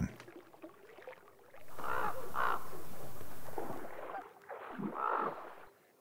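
Harsh, crow-like bird calls: two close together about two seconds in and another near five seconds. A steady rushing hiss, the loudest sound, runs under the first two calls for about two seconds.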